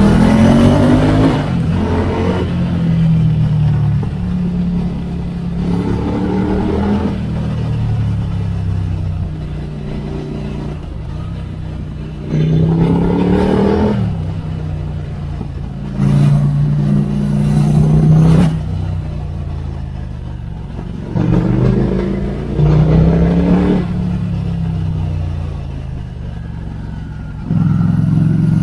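Ducati Scrambler Icon's air-cooled 803 cc L-twin with a Termignoni exhaust, accelerating and shifting up through the gears: the engine note climbs, drops at each gear change, and climbs again. The exhaust gets louder each time the throttle is opened again, several times.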